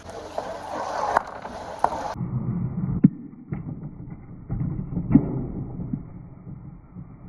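Marbles rolling along a handmade marble run track, with sharp clicks and knocks as they hit the track. About two seconds in the sound turns suddenly muffled, leaving a low rolling rumble with a few knocks.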